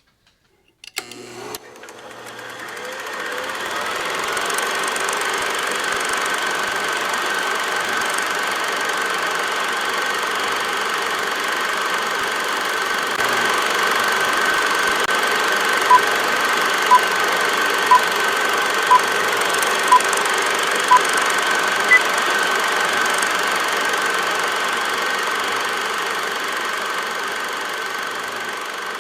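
A small machine starts up about a second in and runs with a steady whirring clatter and a constant high whine. Seven short, evenly spaced beeps, a second apart, sound near the middle.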